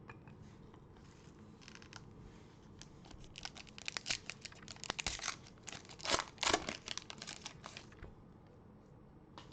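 A trading-card pack's wrapper being torn open and crinkled, a dense run of crackling from about three to eight seconds in.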